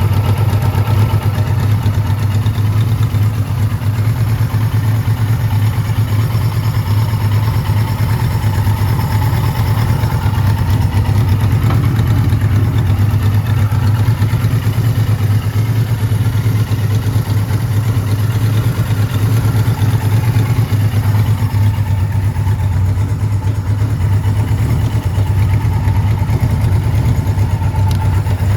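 1979 Kawasaki Z1000ST's air-cooled 1015 cc inline-four engine, fitted with pod air filters, running at a steady idle after warm-up.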